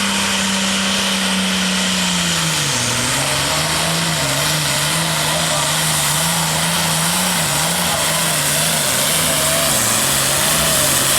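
Hot farm pulling tractor's 466-cubic-inch diesel engine running hard under load as it pulls the sled. Its note drops about two seconds in and then wavers up and down as the sled bears down on it.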